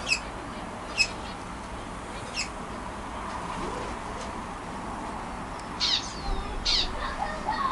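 A flock of budgerigars chirping and chattering: a few scattered short calls at first, then a cluster of louder, quickly falling calls in the last two seconds.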